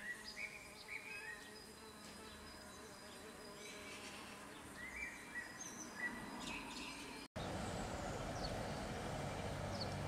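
Small birds calling with short, high chirps over a faint outdoor background. About seven seconds in, the sound cuts out abruptly and gives way to a louder, steady rushing background.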